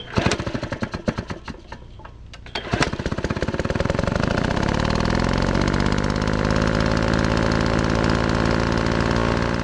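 A small engine firing unevenly in rapid pops, then catching about three seconds in and revving up to a steady fast run before cutting off suddenly at the end.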